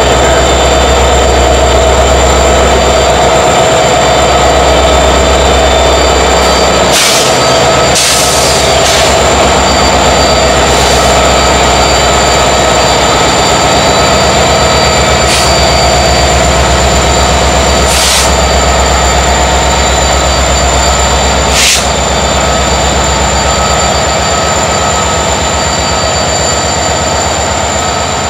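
Freight train rolling by on steel wheels, with a steady high-pitched squeal of wheels on rail over a diesel locomotive's low rumble. Several short, sharp bursts are scattered through the middle.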